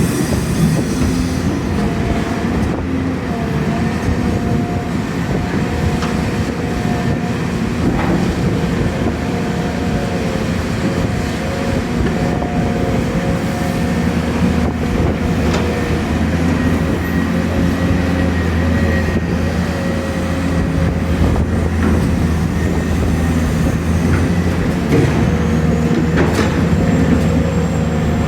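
Excavators' diesel engines running steadily under load, with a wavering hydraulic whine and a few sharp knocks, as logs are handled.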